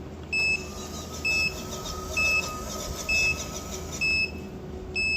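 Electronic beeper sounding six short, identical high beeps, evenly spaced a little under a second apart, with a faint whine behind them.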